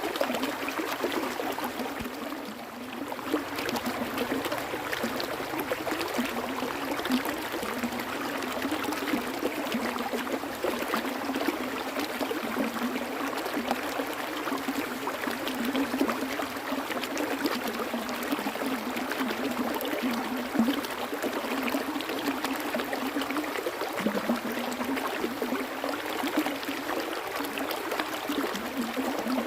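Stream water flowing and trickling steadily, with small gurgles and splashes throughout.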